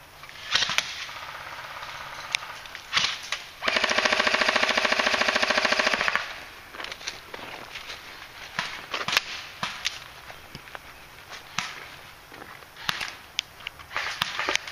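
Airsoft guns firing: one long, rapid full-auto burst of about two and a half seconds, a few seconds in, with scattered single sharp shots or pellet snaps before and after.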